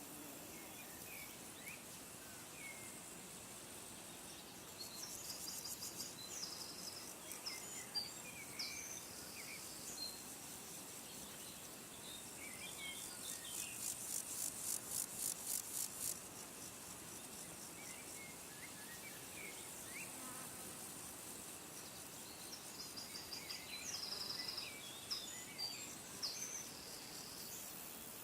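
Insects chirping in high-pitched pulsed trains, a few seconds at a time, with scattered short chirps in between over a faint steady outdoor background.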